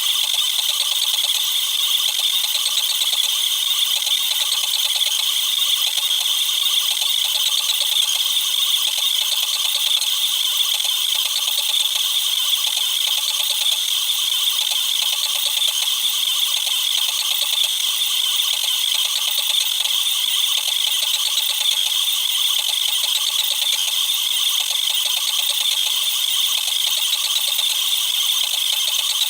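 Cubify Cube 3D printer's motors and moving print head running during a print, with the audio sped up tenfold into a steady, high-pitched rattling chatter of rapid clicks.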